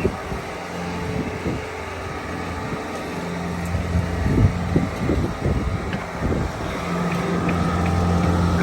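Bobcat S66 skid steer's diesel engine running steadily, getting louder in the last couple of seconds. Low gusts of wind buffet the microphone around the middle.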